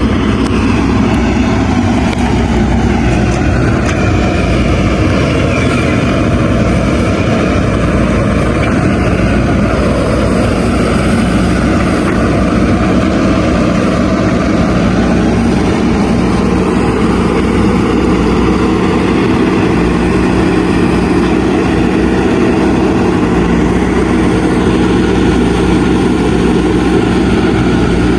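Diesel engine of a JCB 3DX backhoe loader running steadily under work, its pitch drifting slightly up and down.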